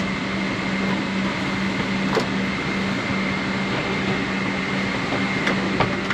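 Steady cabin noise inside a Boeing 777-300: a constant hum of air and aircraft systems with a low drone and a thin high whine, and a few faint clicks.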